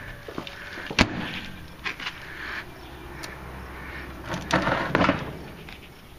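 A few sharp knocks and clicks: one about a second in, and a short cluster near the end, over a low, steady background.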